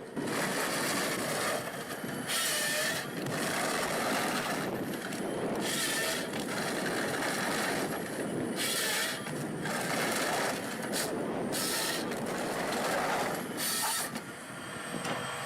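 Komatsu 951 forestry harvester at work with its C144 head: steady machine noise broken by about five short hissing bursts, a few seconds apart.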